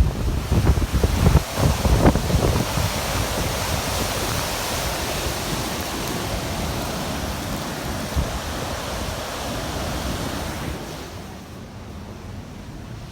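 Wind buffeting the microphone in gusts for the first few seconds, then a steady rushing of wind and surf that drops away about eleven seconds in.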